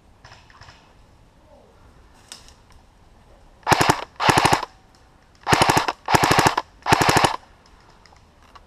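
Airsoft electric gun (AEG) firing five short full-auto bursts, each about half a second of rapid mechanical clatter, starting a little under four seconds in; a few faint distant shots come earlier.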